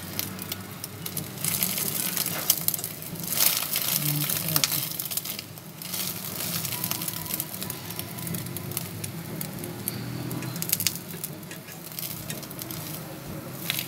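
Egg-coated bread frying in hot oil in a nonstick pan, sizzling and crackling steadily, with a fork pressing and scraping against the pan.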